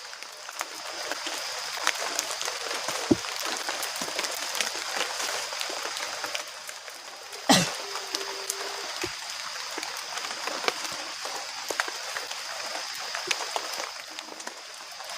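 Heavy rain falling steadily in the forest, with scattered drops ticking and splashing close by. A single sharp knock sounds about halfway through.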